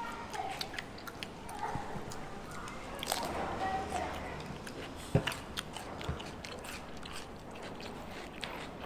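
Close-up chewing and biting of crunchy food, fresh cucumber and fried chicken, with a run of crisp crunches and mouth clicks. One sharp crunch about five seconds in is the loudest.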